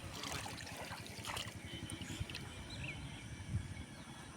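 Shallow river water sloshing and trickling over a low, uneven rumble, with a few sharp clicks about a second and a half in.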